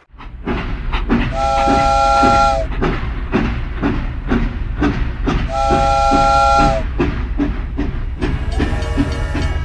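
Train whistle blowing twice, each blast a chord of several steady notes held for over a second, over a steady rhythmic clickety-clack of wheels. Music comes in near the end.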